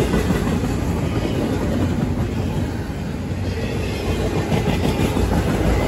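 Double-stack intermodal train's container cars rolling past close by: steady noise of steel wheels on the rails.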